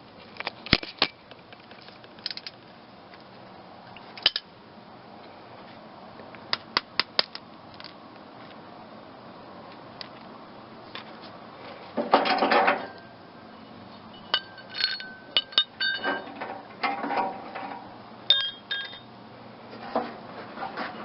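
Hand tools and loose metal clinking, knocking and scraping against an old car exhaust system being taken apart. There is a quick run of clicks about seven seconds in, a short scraping burst about twelve seconds in, and a few ringing metal taps after that.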